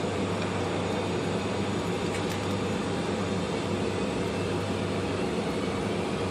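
Steady low mechanical hum under an even hiss, with no change in level.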